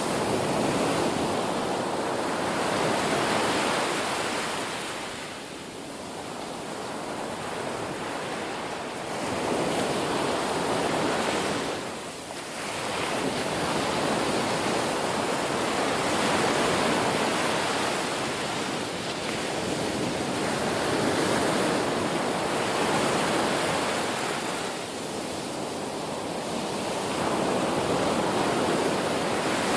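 Ocean waves breaking on a shore, a continuous wash of surf that swells and ebbs every few seconds.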